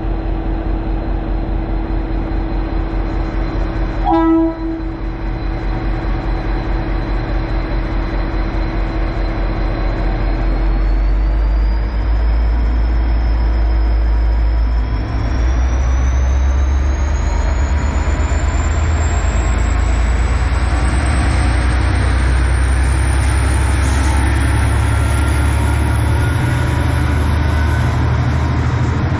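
V/Line diesel train pulling out: a short horn toot about four seconds in over a steady engine hum, then the engine's low rumble builds as it accelerates, with a whine that climbs steadily in pitch.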